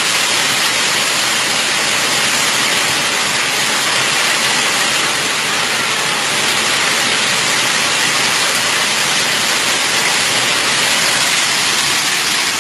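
Hailstorm: hail and heavy rain falling in a steady, dense hiss that does not let up.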